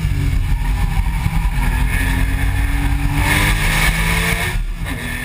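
Porsche 997.1 911's flat-six exhaust heard from the rear bumper at speed, the engine climbing steadily through the revs, then dropping to a lower pitch near the end as it changes gear. A rasp and wind rush sit over the exhaust note.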